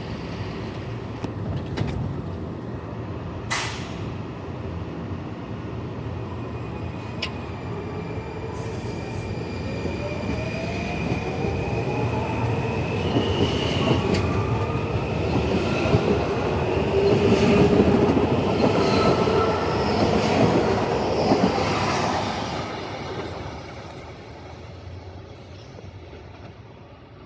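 Washington Metrorail Red Line train running past: rumbling wheels on the rails with a rising whine and high squeals, growing louder to a peak a little past the middle, then fading away near the end.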